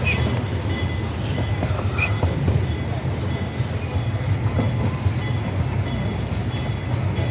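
Park railroad train running along its track, heard from aboard: a steady low rumble with the wheels clicking over the rail joints.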